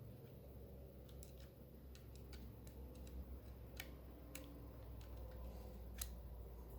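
Irregular faint clicks and taps, small hard parts being handled, over a low steady hum; the sharpest click comes about six seconds in.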